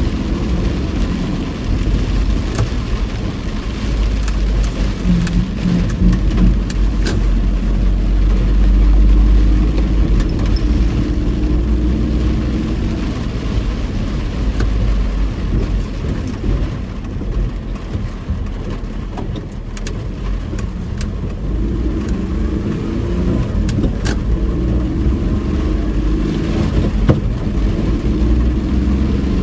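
Inside a car driving in heavy rain: steady engine and road drone, with rain striking the body and windscreen and scattered sharp ticks.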